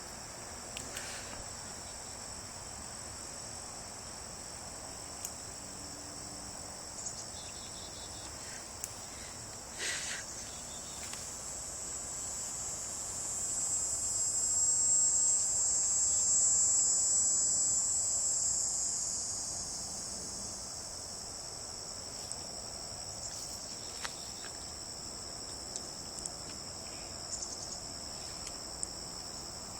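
Steady high-pitched chorus of insects such as crickets, swelling louder for several seconds in the middle and then settling back.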